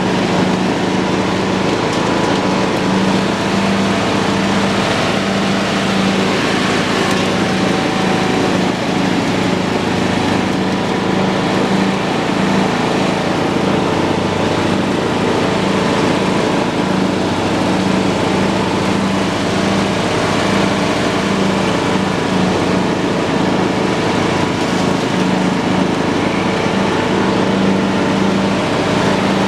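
John Deere lawn tractor running steadily while mowing grass.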